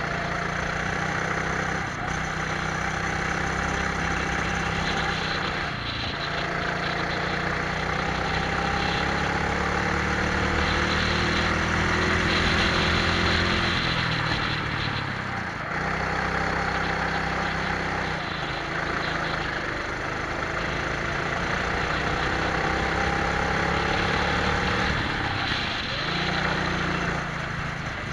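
Twin-engine Prokart's engines pulling up through the revs and dropping off as the throttle is lifted for corners, about 2, 6, 15 and 26 seconds in, with wind rushing over the onboard microphone.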